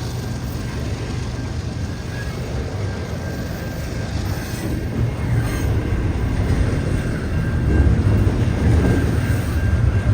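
Freight train cars rolling past, a steady rumble of wheels on rail that grows louder in the second half, with a faint thin high tone over it.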